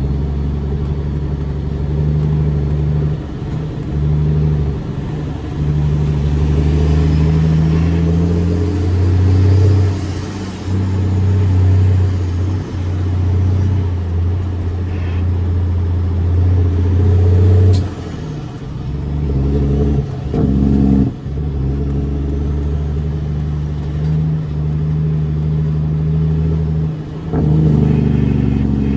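Straight-piped CAT C13 diesel engine of a Kenworth W900B dump truck running under way. Its note holds, then climbs and drops several times.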